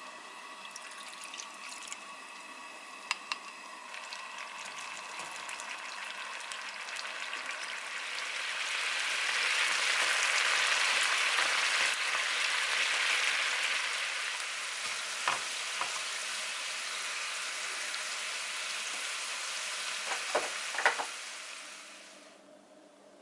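Food sizzling in a hot frying pan. The sizzle grows louder for several seconds in the middle, then eases and dies away near the end. A few sharp clicks, typical of a utensil tapping the pan, come through it.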